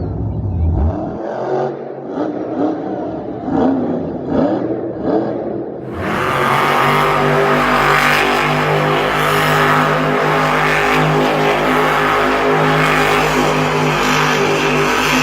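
Monster truck supercharged V8 engines revving unevenly, then about six seconds in a much louder, steady high-revving drone that holds on.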